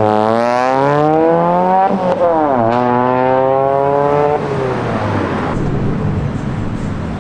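Car engine accelerating hard through the gears: the pitch climbs, drops with an upshift about two seconds in, climbs again, then fades out a little after four seconds.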